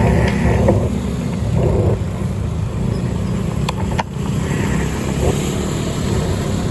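Steady low rumble of a vehicle on the move, with two short sharp clicks about four seconds in.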